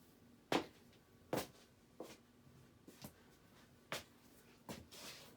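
Six sharp clicks, spaced irregularly about a second apart, over a faint steady hum.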